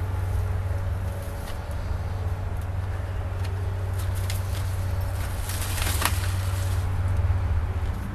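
Potato plant tops being cut off: rustling foliage with scattered sharp snaps and crackles, busiest in the middle, over a steady low rumble.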